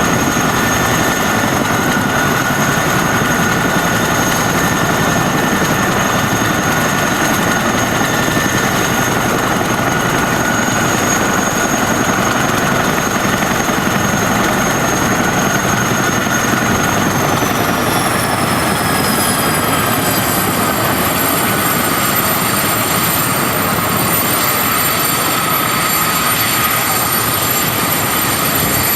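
Boeing CH-47D Chinook helicopter's twin turboshaft engines and rotors running with a loud, steady turbine whine. About two-thirds of the way through, the whine glides down in pitch and then holds at the lower pitch as the engines are brought down in speed.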